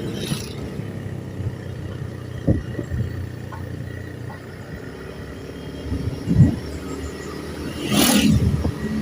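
A vehicle engine running with a low rumble, with a few short knocks and a louder stretch near the end.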